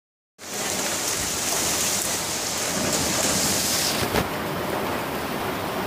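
Heavy thunderstorm rain pouring steadily onto pavement and roofs, starting a split second in, with a short sharp knock about four seconds in.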